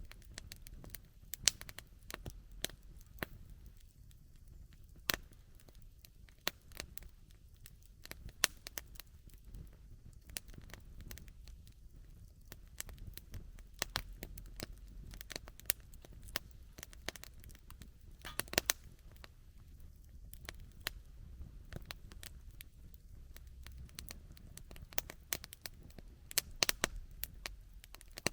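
Wood campfire crackling and popping: irregular sharp snaps over a faint low rumble, with quicker bursts of pops now and then.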